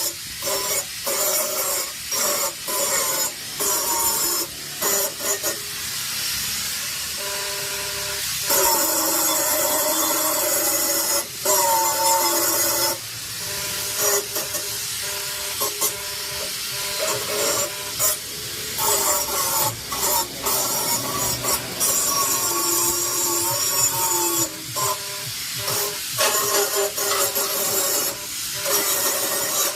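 Harsh hissing of steel being worked with a power tool, coming in long stretches with short breaks and clicks between, over background music.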